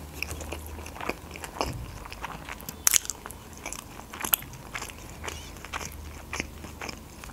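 Close-up chewing of a mouthful of baked sushi rolls, with irregular wet mouth clicks and a couple of sharper clicks about three and four seconds in.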